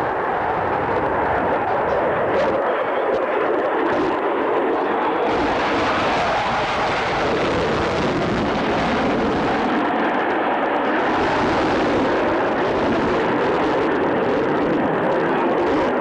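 An aircraft's engine noise during a flying display, steady throughout, with a brighter hiss swelling about five seconds in and again about eleven seconds in.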